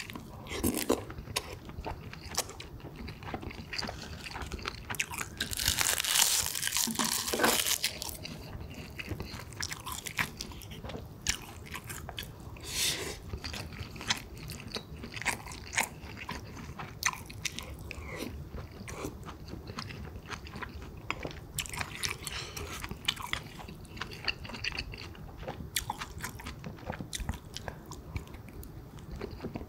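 Close-miked eating: a person chewing mouthfuls of pork kimchi stew and rice, with many short clicks and crunchy bites. A louder, noisier stretch comes about six to eight seconds in.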